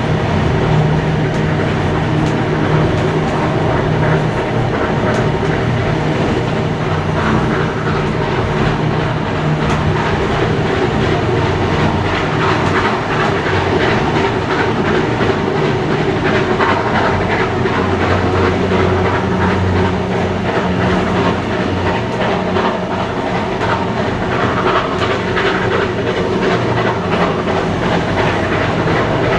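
Steam-hauled train running steadily along the line, a continuous rumble with wheel clatter over the rail joints.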